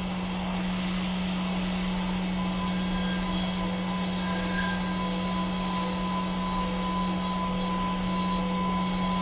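CNC machine running steadily while milling an aluminum part: a constant hum under an even hiss, with a thin steady whine coming in about two seconds in.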